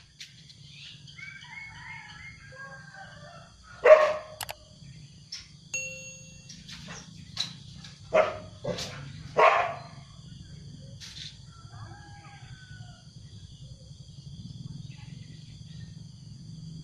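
A dog barking in short, single barks, the loudest about four, eight and nine and a half seconds in, with fainter barks between, over a steady high-pitched drone and a few small chirps near the start.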